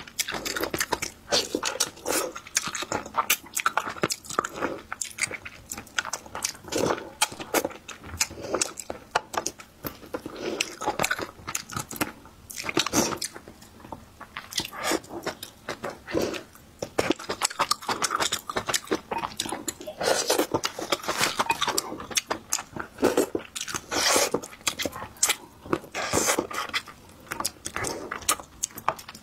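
Close-miked chewing and biting of spicy braised bullfrog: wet mouth sounds and crunching in quick irregular clicks.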